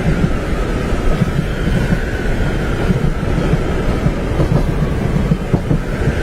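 Steady low rumble of a train running on its tracks, heard from inside a carriage, with a faint high steady tone above it.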